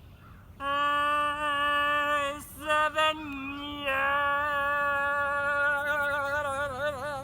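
A voice singing long held notes, briefly broken by two short louder bursts in the middle. It ends on a long note with widening vibrato.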